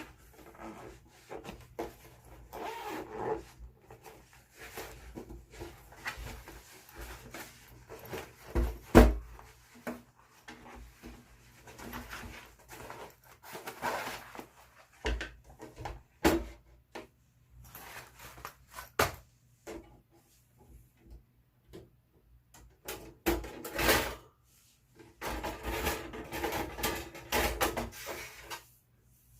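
Camp cooking gear being handled: irregular rubbing and scraping with scattered knocks, one loud knock about nine seconds in.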